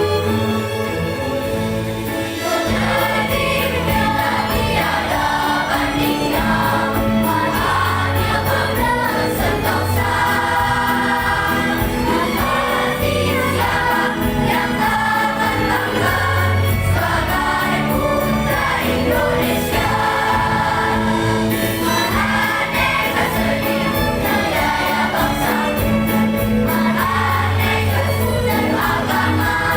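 Elementary-school children's choir singing in unison over a steady instrumental accompaniment; the voices come in about two seconds in.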